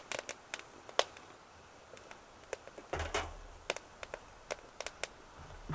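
Wood burning in a BioLite Basecamp biomass stove: irregular small crackles and pops. About three seconds in there is a brief low thump and rumble.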